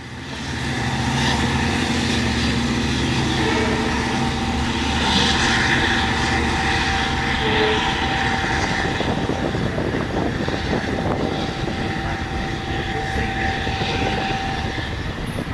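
Diesel train running past, swelling up within the first second into a steady engine drone with a steady high whine over it.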